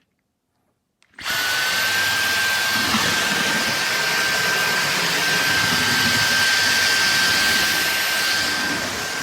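Dyson Gen5outsize cordless stick vacuum switching on about a second in and running steadily, its motor giving a constant high whine over a rushing of air.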